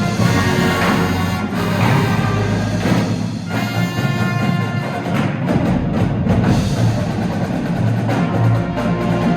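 Indoor marching band of winds and percussion playing the show's opener, held chords over drum and percussion strikes.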